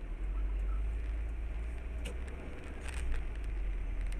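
Steady low rumble of a car driving on the road, with a few faint ticks.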